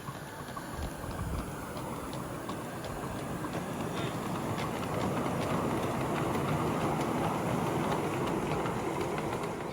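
Miniature railway train running on the track: a steady rumble of wheels on rail with faint light clicks, growing a little louder toward the middle and easing near the end.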